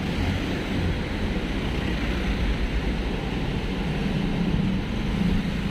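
Steady rumble of a vehicle on the move: engine and road noise with a low hum.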